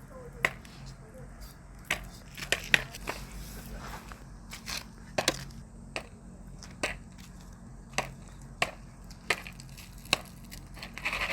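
Popcorn kernels popping over a charcoal shichirin grill: sharp, single pops at irregular intervals, roughly one or two a second.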